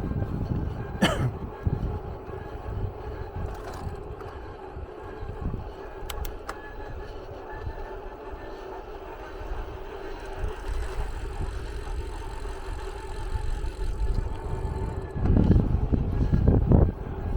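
A vehicle on the move: a steady low rumble with a constant drone, a few faint clicks, and louder buffeting rumble near the end.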